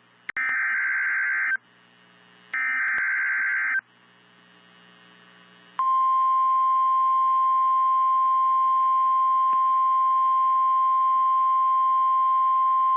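Weather radio alert signals for a severe thunderstorm warning: the last two bursts of the SAME digital header, a buzzing data warble each about a second long, then about six seconds in the steady 1050 Hz warning alarm tone begins and holds.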